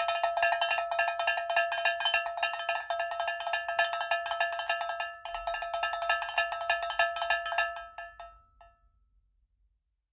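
Fast, unbroken run of sharp strikes on something that rings at a few fixed pitches, starting abruptly and fading out about eight seconds in.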